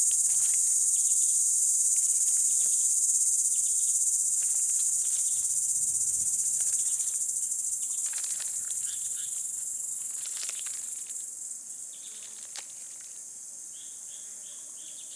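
Steady high-pitched chorus of forest insects, an unbroken shrill drone that fades down over the second half. A short run of quick chirps comes near the end.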